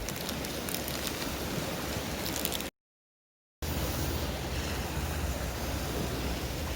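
Steady rush of sea surf and wind at the shore. It cuts out completely for just under a second about halfway through, then comes back with a stronger low rumble.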